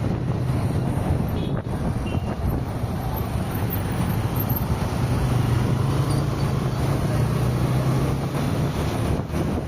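Steady road noise of a car driving on a highway, with traffic around it and a low engine hum that grows stronger about five seconds in.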